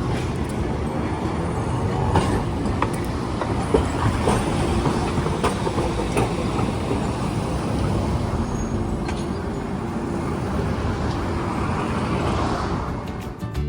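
Hiroden streetcar running on street track: a steady rumble of wheels on rail, with a few sharp clicks, fading near the end.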